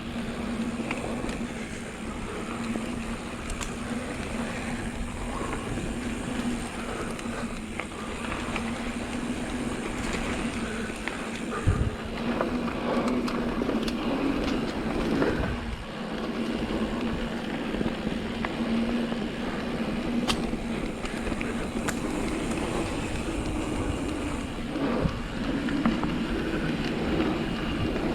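A Vitus Sommet full-suspension mountain bike riding a dirt trail: steady rolling noise from the tyres, with scattered clicks and rattles from the bike and a sharp knock about twelve seconds in.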